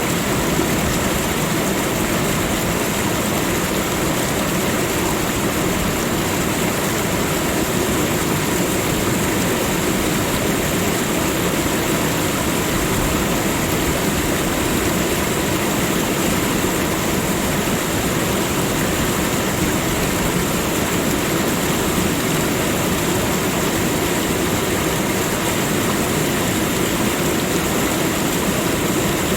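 Steady, unchanging rushing of running water, with a thin steady hiss high above it and no separate events.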